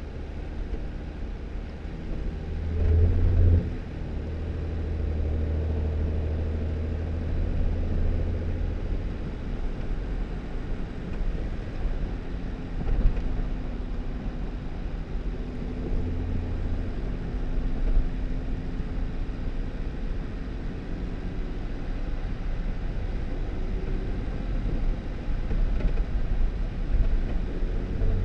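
2018 Jeep Wrangler driving on a snowy dirt road: steady engine hum over a constant low tyre-and-road rumble. The engine note swells briefly about three seconds in and again about halfway through.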